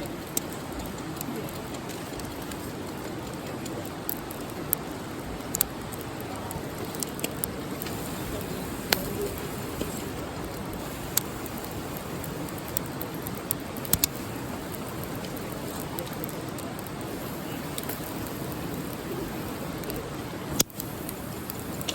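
Wood campfire crackling: irregular sharp pops and snaps over a steady, even noise.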